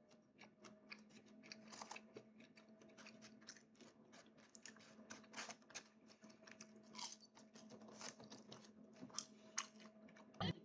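Near silence: faint scattered clicks and crackles over a low steady hum.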